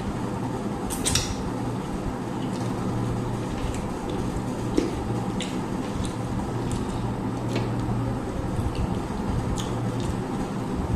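Eating sounds: rice and curry being mixed and eaten, with wet squishing, chewing and scattered light clicks against plates, over a steady low hum.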